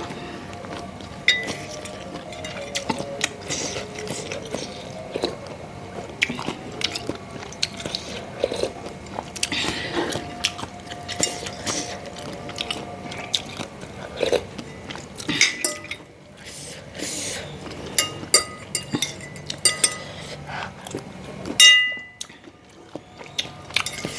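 Close-up eating sounds of a person eating bakso: chewing and biting, with many small clicks and several ringing clinks of a spoon against the bowl. The loudest clink comes near the end.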